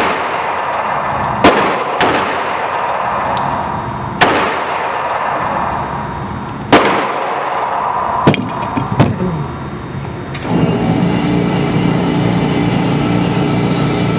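About five .45 ACP pistol shots from a CZ 97B at irregular intervals, each ringing out with a long echo, followed by a few lighter clicks. About two-thirds of the way through a steady low machine hum starts and runs on.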